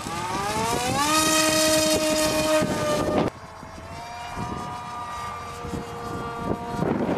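Electric motor and pusher propeller of a radio-controlled model jet whining, rising in pitch over the first second as the throttle opens and holding high. A little past three seconds in it drops sharply, then carries on as a lower, steadier whine.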